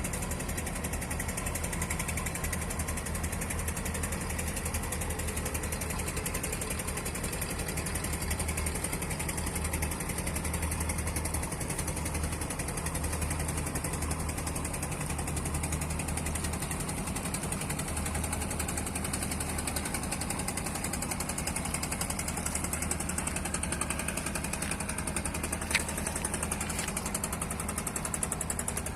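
Boat diesel engine running steadily with a fast knocking beat, and one sharp click near the end.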